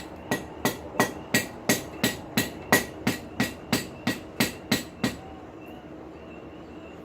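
Blacksmith's hammer striking steel on an anvil in a steady rhythm, about fifteen ringing blows at roughly three a second, stopping about five seconds in.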